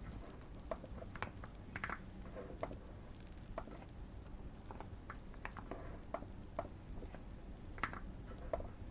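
Typing on a modded Keychron Q1 mechanical keyboard with Fierce Girl switches: irregular soft key clicks, a few a second. Light fireplace crackling sits underneath.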